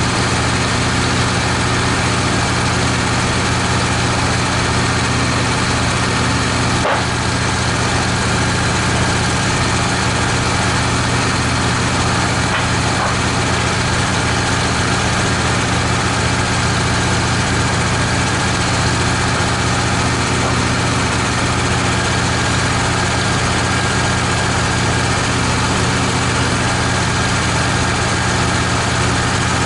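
Wood-Mizer LT15 band sawmill's engine running steadily and evenly, with a single sharp click about seven seconds in.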